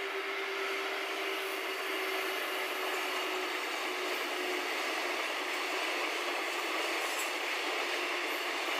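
Electric freight train passing, its container wagons rolling by with a steady rumble and rattle. A steady hum fades out about four seconds in as the locomotive moves on.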